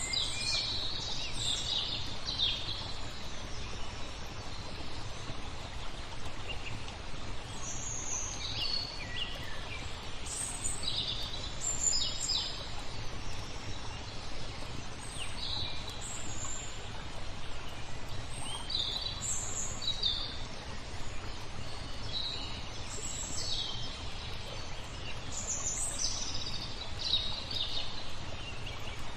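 Small birds chirping and singing in short scattered phrases over a steady wash of flowing water.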